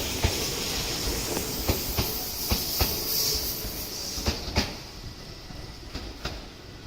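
Tobu 8000 series electric train running on the rails, its wheels clacking over rail joints with a steady hiss. The clicks grow fainter and the hiss dies away after about four and a half seconds as the train moves off.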